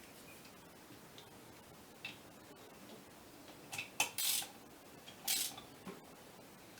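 Metal parts and tools being handled on a workbench while a clutch actuator is put back together: a few light metallic clicks and clinks, with two short scrapes about four and five seconds in.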